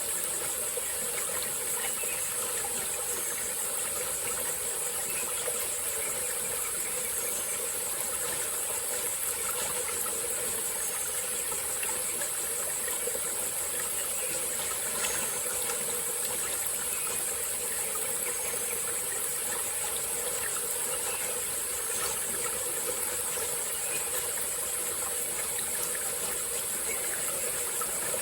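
Steady, high-pitched chorus of tropical forest insects over the continuous running and gurgling of a small forest stream.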